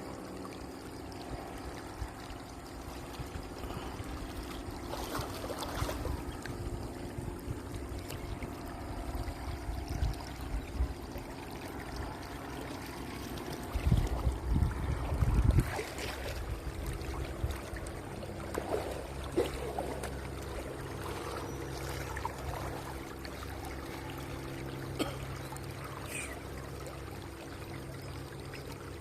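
Distant paramotor engines drone steadily over the sound of flowing water, with low gusts of wind buffeting the microphone about halfway through.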